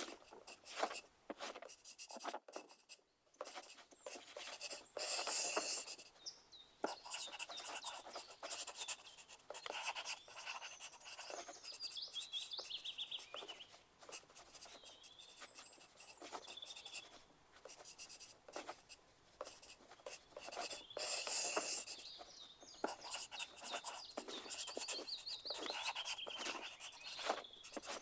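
Pencil writing on paper in quick, irregular scratching strokes, with denser, louder stretches of writing about five seconds in and again past twenty seconds.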